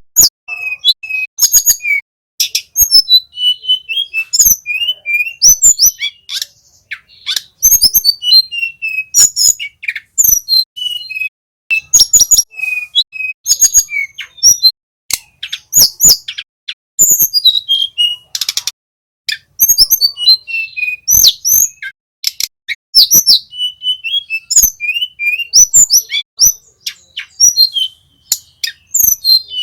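A flycatcher singing a fast, high song of chirps, short whistled notes and trills, in phrases a second or two long with brief pauses between them.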